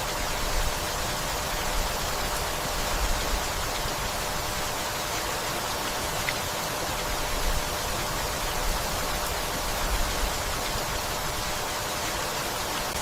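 Steady rainfall, an even hiss of falling rain.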